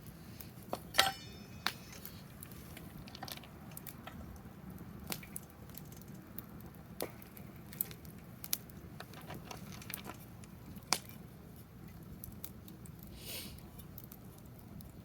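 Wood fire in a fire pit crackling, with irregular sharp pops, the loudest about a second in and near eleven seconds, and a brief hiss about thirteen seconds in.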